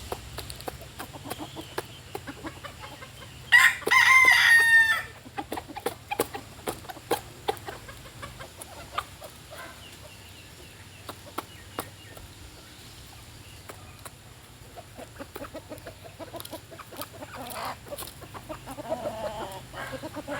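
A rooster crows once, loud, about three and a half seconds in, lasting about a second and a half. Around it hens cluck softly, and short sharp taps go on throughout from the chickens pecking at raw rice.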